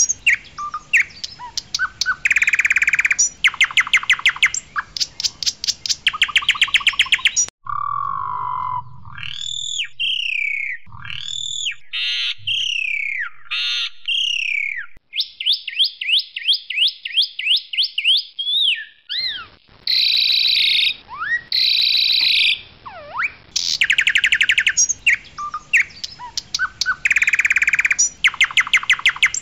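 Pied myna (jalak suren putih) singing loudly: fast rattling trains of clicks, chattering phrases and whistles that rise and fall. The recording jumps abruptly between passages a few times, and the opening phrase sequence comes round again near the end.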